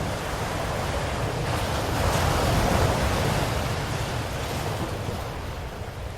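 Ocean waves breaking on a shore: a single wave swells to its loudest about two to three seconds in, then washes back and fades over the rest.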